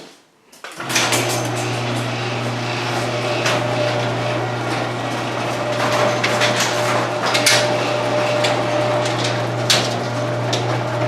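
LiftMaster garage door opener starting up about a second in, its motor running with a steady hum under constant rattling, clicking and knocking as the door travels. A noisy opener.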